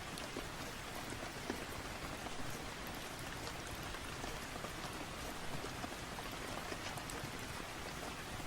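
Steady rain falling, an even hiss with scattered light ticks of drops.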